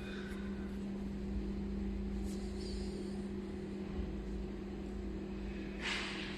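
Steady machinery hum in a factory workshop, one low pitch under a rumble, with a short hiss about six seconds in.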